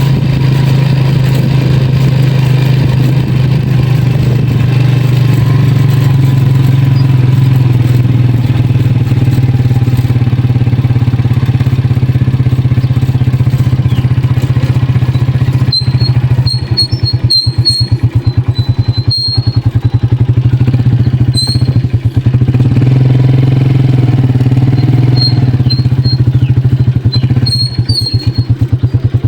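Motorcycle engine running steadily while riding. From about halfway it turns choppy with rapid regular pulsing, and short high squeaks come through several times.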